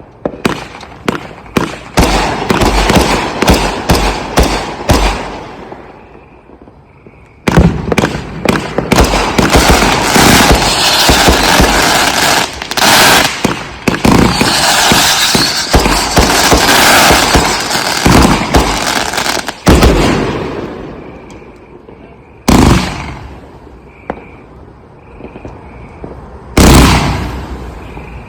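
Consumer aerial fireworks going off. Rapid volleys of shots and bursts start it, then a short lull about five seconds in. A dense crackling barrage follows for about twelve seconds, and two single loud booms come near the end.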